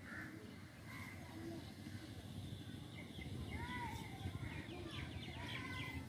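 Birds calling: several short arched calls and a quick run of chattering notes near the end, over a steady low rumble.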